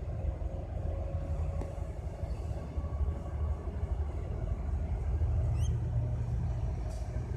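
Steady low rumble of a train standing in a rail yard, with a faint steady hum above it. A brief high rising chirp sounds about five and a half seconds in.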